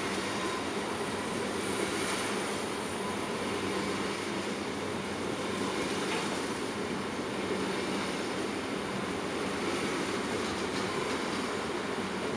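SBB electric passenger train rolling past on the track: steady running noise of wheels on rails, with a low, even electric hum.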